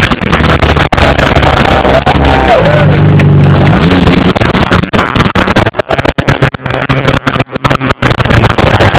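Fuel-injected engine on a run stand running very loud just after starting, revved up and back down a few seconds in.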